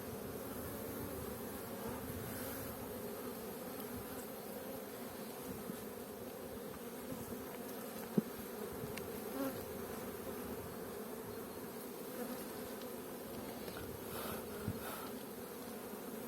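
Honeybees humming steadily over an open hive, with a few light knocks. The beekeeper judges this colony to have lost its queen.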